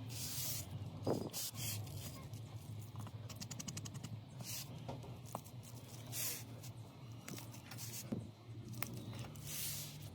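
Phone repair work: short hissing bursts and scraping, scattered clicks with a quick run of them about three seconds in, over a low steady hum.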